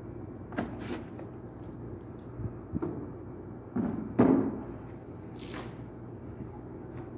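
Wet squishing and dripping from hand car washing: several short wet strokes, the loudest about four seconds in, over a steady low hum.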